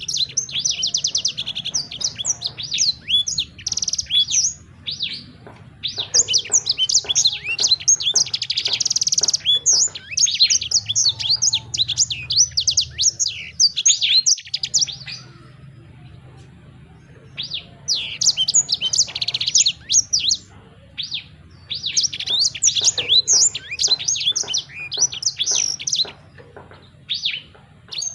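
Songbird singing: rapid, high chirps and trills in bursts of several seconds, with short pauses between phrases.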